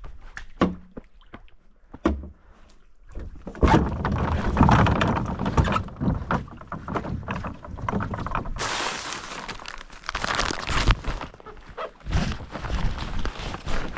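A canoe being handled: a few sharp knocks on its hull, then about ten seconds of continuous scraping and rustling broken by louder thunks.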